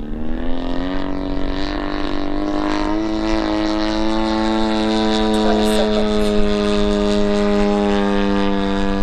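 DA-100 100cc twin-cylinder two-stroke gasoline engine of a giant-scale RC Super Decathlon running in flight. Its pitch steps up twice in the first few seconds, then holds a steady drone.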